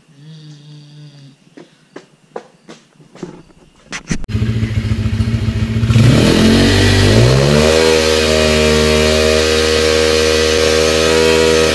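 A few clicks, then a pit bike's engine starts about four seconds in, revs up and is held at high revs, dropping back near the end.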